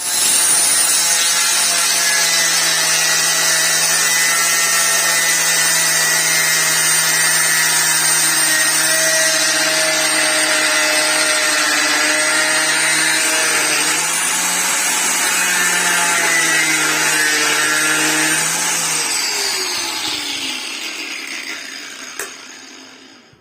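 Angle grinder running at full speed with a high whine over a grinding hiss, its pitch dipping slightly now and then as it works, then switched off and spinning down with a falling whine over the last few seconds.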